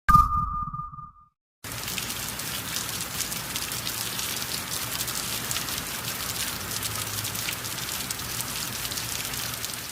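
Rain sound effect: steady, even rainfall hiss thick with fine drop patter, starting about two seconds in. Just before it, a short effect: a thump with a ringing tone that lasts about a second.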